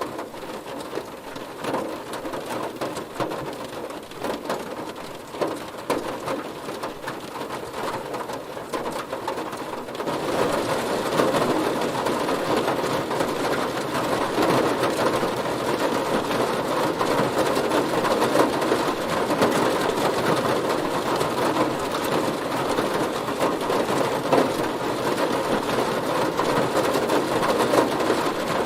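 Heavy rain hitting a car, a dense patter of drops that gets louder about ten seconds in.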